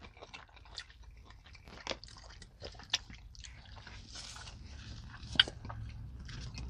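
Close-up chewing and eating sounds: soft wet mouth noises with scattered sharp clicks, over a faint low hum.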